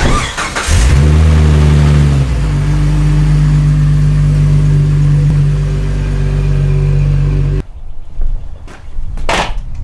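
Jeep Wrangler engine starting: a brief crank, then it catches and runs at a fast idle before settling to a steady idle after about two seconds. The engine sound cuts off abruptly a couple of seconds before the end, and a single knock follows.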